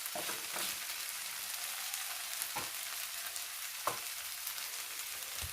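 Chicken pieces sizzling steadily in the oil that has separated out of the curry once its liquid has cooked off, with a few light taps of a spoon against the pan.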